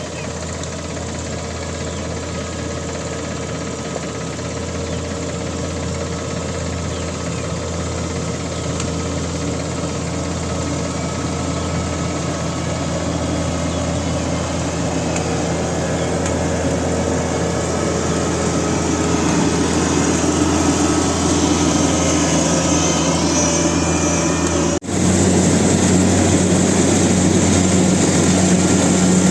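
Diesel engine of a Kubota DC68G combine harvester running steadily and slowly growing louder. About 25 seconds in it breaks off abruptly into a louder engine sound.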